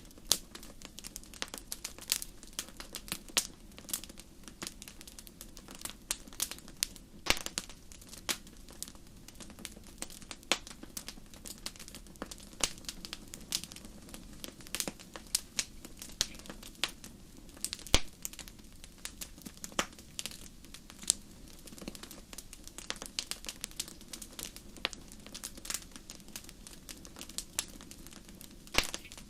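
Wood fire burning in a fireplace, crackling with irregular sharp pops, several a second, over a steady low rush of flame.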